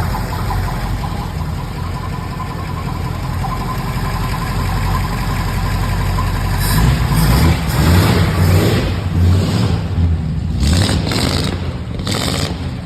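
1939 Ford sedan's engine running through new true dual exhaust with glass-pack mufflers and 1 3/4-inch pipes, idling steadily at first, then revved in several surges through the second half.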